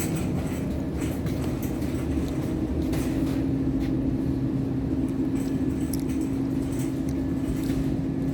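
Steady hum and low rumble of a large store's machinery and ventilation, with a few faint clicks and knocks.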